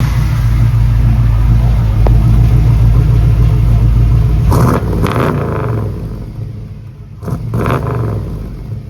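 Chevrolet 350 small-block V8 of a 1980 Camaro running loud through aftermarket headers, then revved in two pairs of short throttle blips, one about halfway through and one near the end.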